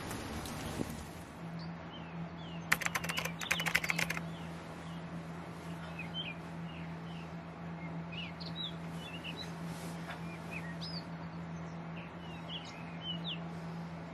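Small birds chirping with many short rising and falling notes, scattered all through. A rapid run of sharp clicks lasts about a second and a half, a few seconds in, over a steady low hum; a hiss fades out about a second in.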